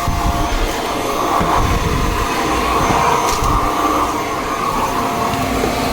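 Shark stick vacuum running steadily on its lowest setting with a wide nozzle attachment, a constant motor whine over suction noise as it picks up debris from stair treads.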